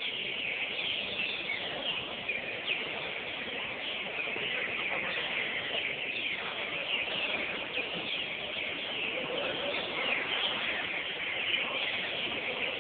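Many caged songbirds, green-winged saltators (trinca-ferro) among them, singing at once: a dense, unbroken chorus of overlapping short whistles and chirps.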